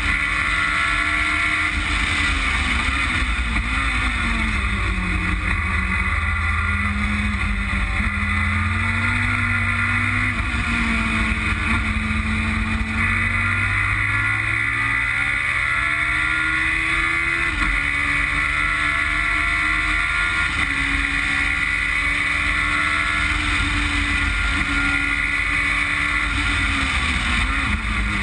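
Westfield Megabusa's Suzuki Hayabusa inline-four motorcycle engine heard on board at track speed, over heavy wind rush on the open cockpit. Its note falls as the car brakes for a corner a few seconds in, then climbs again under acceleration through the gears, with a sharp gear change about 17 seconds in and another drop near the end.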